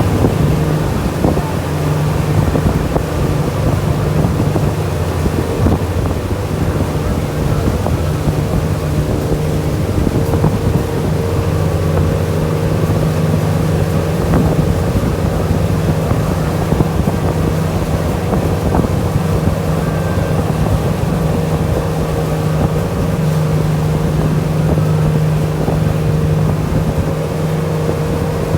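Tour boat's engine running steadily under way, a constant low drone with wind noise on the microphone.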